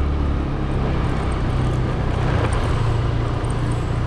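A motor vehicle's engine running close by, a steady low hum that shifts in pitch about half a second in, over general street traffic noise.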